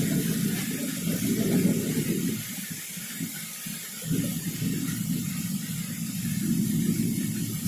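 Thunderstorm: steady hiss of heavy rain with a low rolling rumble of thunder that dies away about two seconds in and swells again a second or two later.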